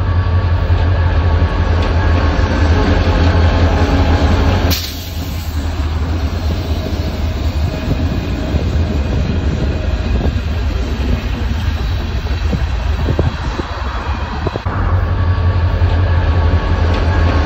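Diesel train running: a steady low engine drone with rail noise. About five seconds in it cuts sharply to a quieter stretch with scattered wheel clicks, and the louder drone comes back near the end.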